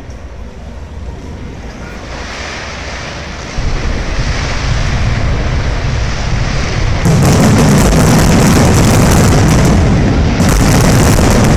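Fireworks going off in a dense, continuous barrage of bursts that grows louder, stepping up about three and a half seconds in, with a sharp crackle of many quick pops on top from about halfway through.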